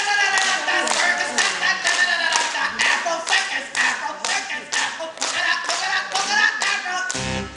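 Audience clapping in rhythm, about two claps a second, with voices calling over it. Music with a bass line comes in near the end.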